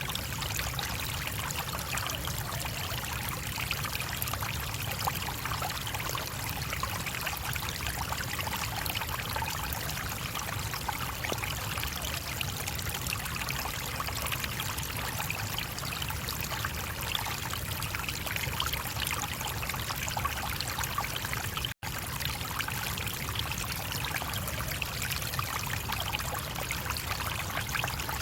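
Stream water running steadily, a constant rush of flowing and trickling water. A split-second dropout in the sound comes late on.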